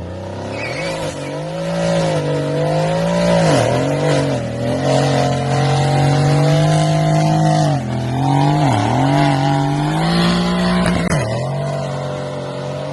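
Mercedes-AMG C63 S V8 engine running hard at high revs, held fairly steady, with sudden drops in pitch about four times that pick straight back up.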